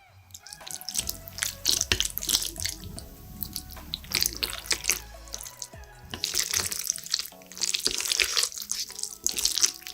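Wet slurping of noodles with chewing, in irregular bursts, over faint background music.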